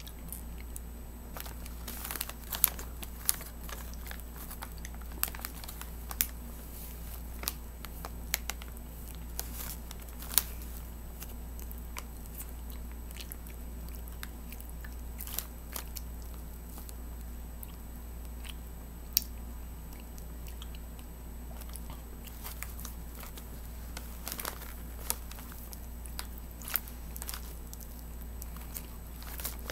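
Close-up mouth sounds of someone eating cotton candy: irregular chewing clicks and lip smacks, a few much louder than the rest, over a steady low hum.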